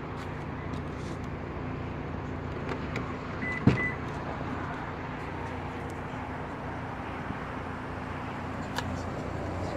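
Power liftgate of a 2019 Subaru Ascent whirring steadily for about nine seconds as it moves. Two short high beeps and a sharp thud come a little under four seconds in.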